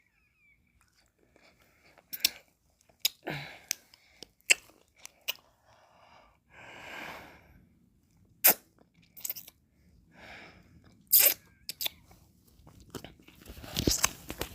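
Close-miked mouth sounds of eating ice cream: a scatter of sharp wet smacks and clicks with a few short slurping swells, the longest about seven seconds in and another near the end.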